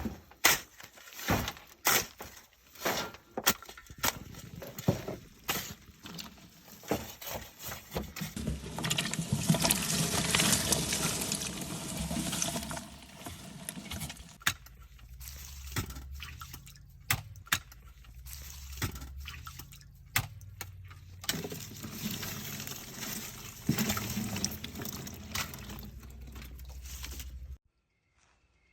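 Water pouring and splashing, mixed with a series of sharp knocks and clatter. The pouring is heaviest for several seconds in the middle, and everything cuts off abruptly near the end.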